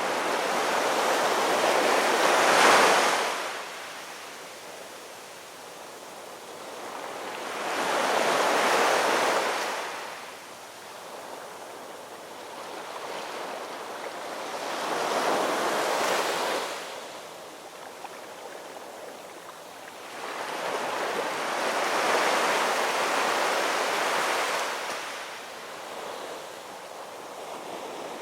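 Ocean waves breaking on a shore: four slow swells of surf, each building and washing out, about six to seven seconds apart.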